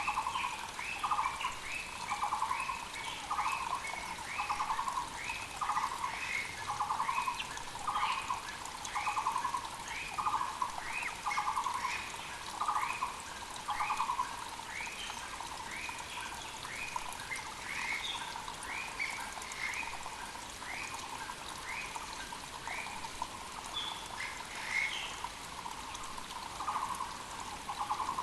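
Muller's barbets calling: a steady series of loud, low repeated notes, a little under one a second, alongside a series of shorter, higher notes. The low series stops about halfway and starts again near the end, over the faint steady rush of a mountain creek.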